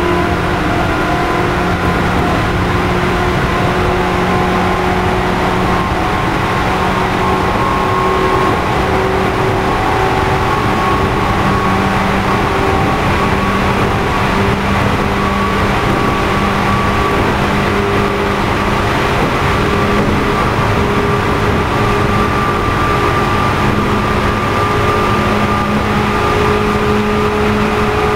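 Running sound of JR East 211 series motor car MoHa 211-1, a car known for an unusual motor noise: its externally fan-cooled traction motors hum over steady wheel and rail noise. The motor tones rise slowly in pitch as the train picks up speed.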